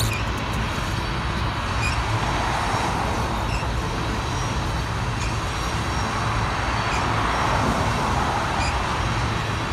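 A BNSF grain train's covered hopper cars rolling past, a steady rumble of steel wheels on rail.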